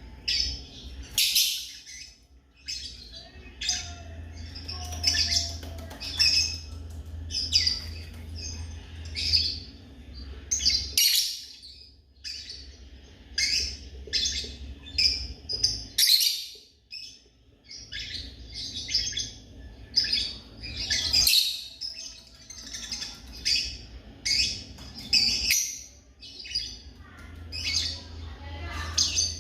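African lovebirds chirping: rapid runs of short, high chirps, broken by brief pauses about eleven, sixteen and twenty-five seconds in.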